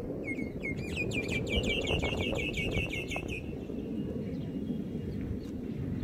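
A small bird singing a rapid series of falling chirps that speed up about a second in and stop about halfway through, over steady low background noise.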